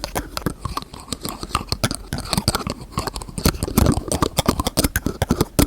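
Close-miked fast, irregular tapping and clicking of fingers on containers and their lids, many small sharp taps a second, growing busier and louder in the second half.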